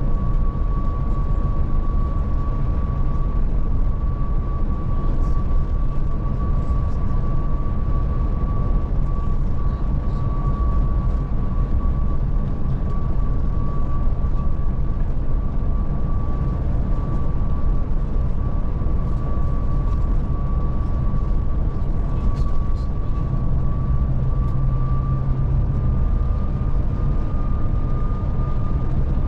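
Scania Touring coach under way, heard from inside the cabin: a steady low rumble of engine and road with a thin, steady high whine that creeps slightly higher near the end.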